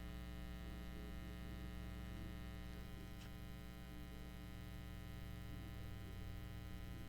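Steady electrical mains hum with many overtones, with a faint tick about three seconds in.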